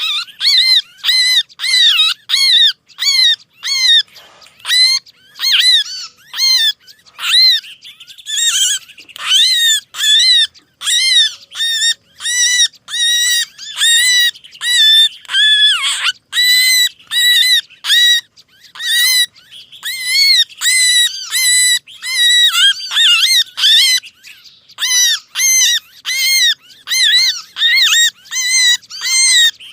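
Small songbirds' agitated distress calls, played as a bird-lure call. Loud, rapid, repeated arched chirps come about two a second, without a break.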